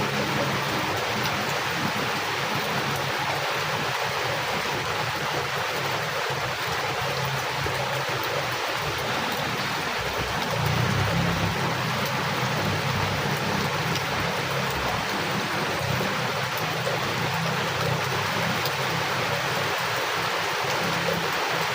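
Heavy rain falling steadily in a dense, even hiss. A low rumble swells briefly about halfway through, as the level rises a little.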